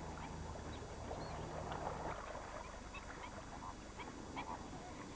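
A large flock of flamingos calling, many short honking calls overlapping in a continuous chatter.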